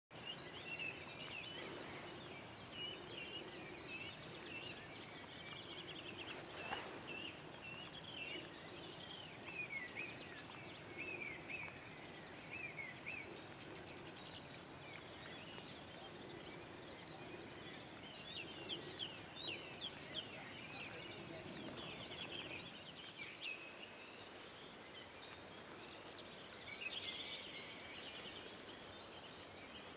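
Birds chirping and calling over and over, short sliding chirps through the whole stretch, over faint outdoor background noise.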